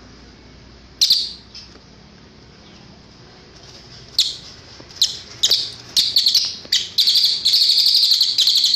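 Cililin singing: a single sharp high call about a second in, then from about four seconds a run of short calls coming closer and closer together, running into a fast, continuous high trill that cuts off suddenly at the end.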